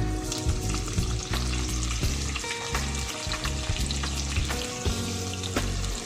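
Hot oil sizzling in a pan as whole spices and bay leaves fry, with scattered crackles and pops and the sound of stirring.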